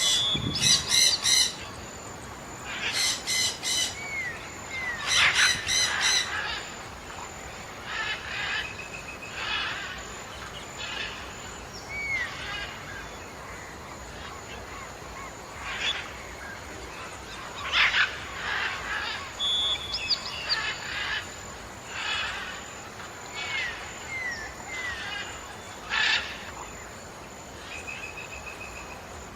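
Birds calling: harsh rattling call series in several bursts over the first few seconds, then scattered chirps, short upslurred notes and sharp single calls.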